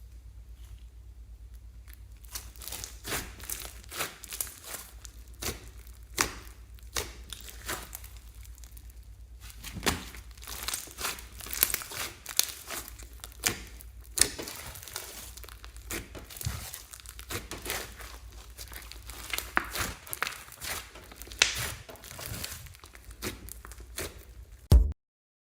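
Slime being squished and stretched by hand, with irregular sticky crackles, pops and crinkles over a faint low hum. It ends in a single louder knock and then cuts off suddenly.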